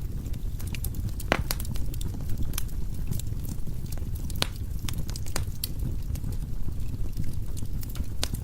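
Wood fire burning in a fireplace: a steady low rumble of the flames with scattered crackles and pops from the burning logs, the sharpest about a second in and again about four and a half seconds in.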